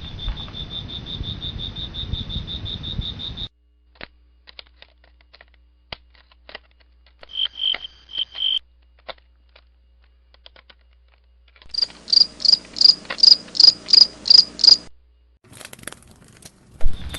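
Insect chirping at a high, steady pitch: a fast, even trill at first, then after a pause with a few faint clicks, a brief burst, and later a louder series of about ten chirps, roughly three a second. The sound starts and stops abruptly between sections.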